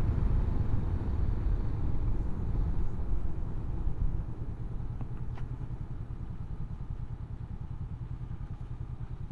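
Honda CB500X parallel-twin motorcycle running on the road, its engine and wind rush a steady low rumble that grows quieter about four seconds in.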